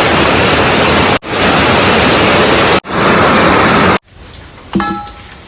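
Heavy rain pouring down in a dense, steady hiss, broken by two abrupt cuts. A little after four seconds it drops to a much quieter scene, where a single ringing clink sounds near the end.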